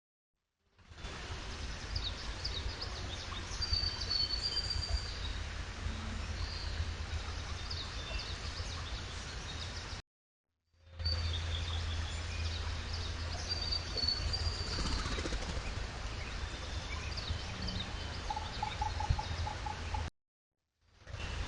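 Trail-camera outdoor ambience: several birds chirping and whistling high and thin over a steady low hum. Near the end comes a short, rapid series of pulsed lower notes. The sound cuts to silence twice where one clip ends and the next begins.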